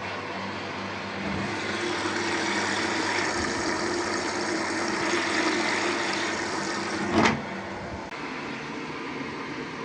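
Samsung Eco Bubble washing machine starting up abruptly from silence and running with a steady hiss and a low hum. A sharp click comes about seven seconds in, after which it runs on a little quieter.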